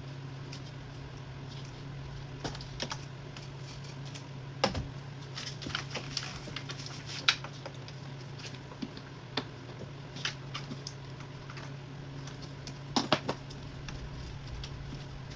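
Irregular light clicks and clinks of hand tools and small metal parts being handled, with a few sharper knocks, over a steady low hum.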